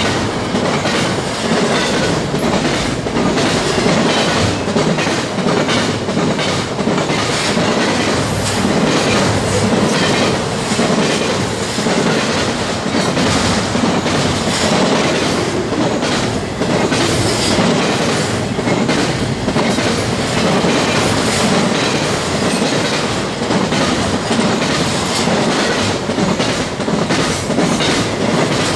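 Double-stack intermodal freight train's well cars rolling past close by: a steady loud rumble and rattle of steel wheels on rail, with frequent clickety-clack as the wheels cross rail joints.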